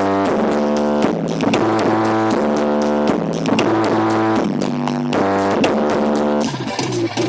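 Loud music played through a large sound system at a sound check: sustained chords over a deep bass line that changes note about every second, with a busy drum beat.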